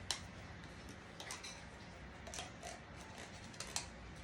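A few scattered light clicks and taps of a utensil against a tin can and a measuring cup as tomato paste is scooped out.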